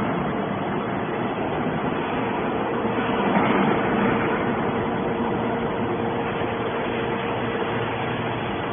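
Hydraulic scrap metal baler running: steady, loud machine noise with a faint hum, swelling briefly about three seconds in.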